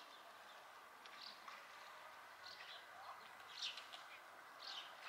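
Faint birdsong: short, high chirps about once a second over a quiet background hush.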